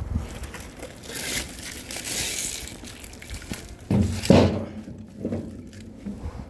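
Crinkling, rustling handling noise, then a few heavy thuds about four seconds in.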